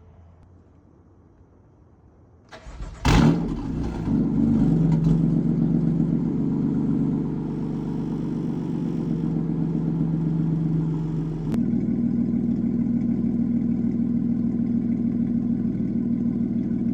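BMW M4's S55 straight-six cranks briefly and catches about three seconds in with a loud flare of revs, then runs at a raised cold-start idle. About eleven and a half seconds in, a click comes and the engine note changes abruptly, then it idles steadily.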